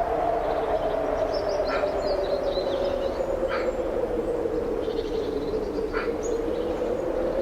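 Strong wind blowing steadily, with a hollow tone that dips slowly and rises again. Small birds chirp and twitter over it, with short sharp calls about two, three and a half and six seconds in.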